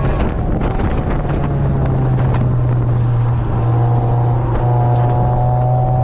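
Mazda Roadster's 1.8-litre four-cylinder engine running at steady high revs on track, heard from inside the open cockpit with wind noise on the microphone; the engine note climbs slowly in the second half.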